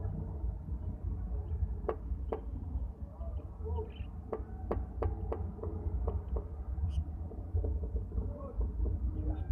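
Small caged pet birds giving a scatter of short, sharp chirps, over a steady low rumble.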